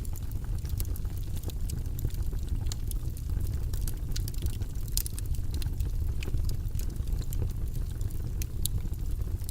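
Steady white-noise background track, heavy in the low end like a rumble, with faint irregular light clicks scattered through it.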